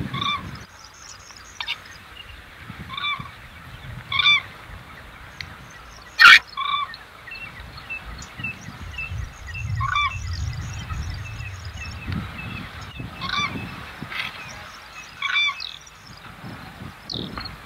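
Birds honking outdoors: short honking calls repeated every few seconds, with small birds twittering faintly behind them. A single sharp click about six seconds in.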